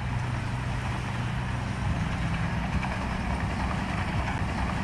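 Diesel engine of earthmoving machinery running steadily with a low, even hum.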